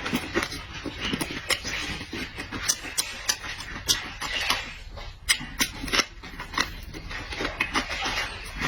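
A person eating close to the microphone: chewing and lip-smacking, with many quick irregular clicks.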